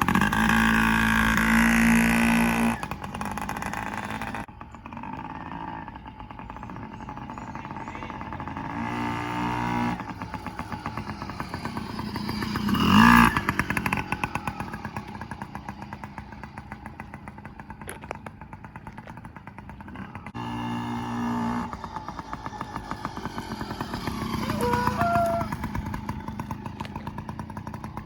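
Yamaha PW50 children's dirt bike with its small two-stroke single-cylinder engine, revving as it pulls away, then fading and swelling again as the bike rides around and passes by, loudest about thirteen seconds in.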